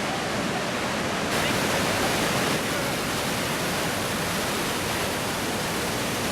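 Iguazu Falls roaring: a steady, dense rush of water pouring over the cliff, with a hiss that brightens slightly about a second in.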